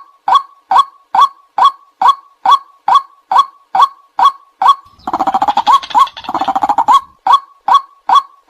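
White-breasted waterhen calling: a steady string of loud "kwak" notes, about two and a half a second. About five seconds in, the notes give way for two seconds to a faster, rougher chattering before the even "kwak" series resumes.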